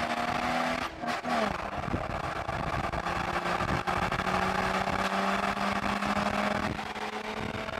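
Open-top off-road buggy's engine running steadily while driving, with wind and road noise. The engine note briefly wavers and shifts about a second in, then holds nearly level.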